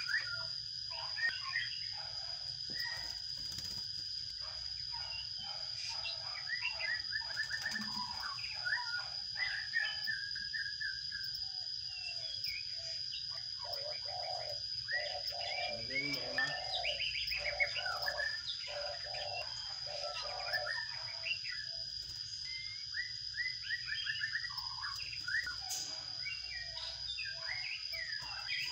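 Sparrows chirping in quick, overlapping runs of short chirps, with a steady high-pitched whine underneath.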